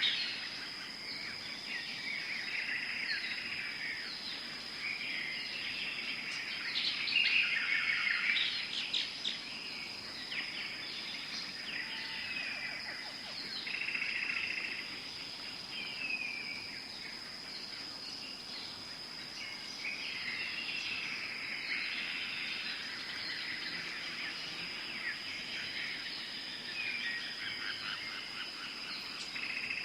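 Tropical forest ambience: many birds calling and chirping, some calls falling in pitch, over a steady high-pitched insect drone. The bird chorus is busiest about a quarter of the way in.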